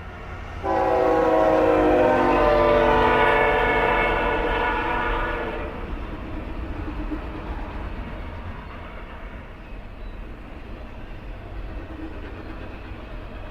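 A diesel freight locomotive's multi-chime air horn sounds one long chord starting about a second in and lasting about five seconds. After it stops, the steady rumble of the locomotives and the intermodal train rolling by carries on.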